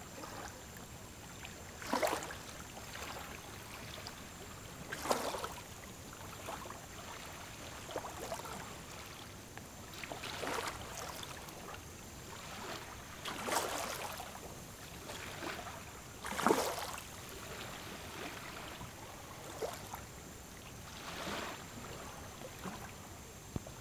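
Water lapping and splashing against the hull of a slow or drifting tour boat: soft slaps every couple of seconds over a steady faint hiss.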